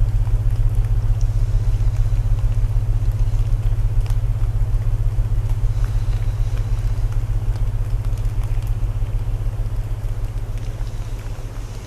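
Layered sleep soundtrack: deep, steady binaural tones over a hiss of rain, with faint crackles of burning wood. The low tones are the loudest part and begin to fade near the end.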